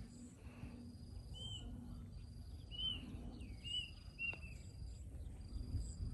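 Outdoor ambience: a bird gives four short chirps in the middle, over a faint, thin high insect buzz that comes and goes and a constant low rumble.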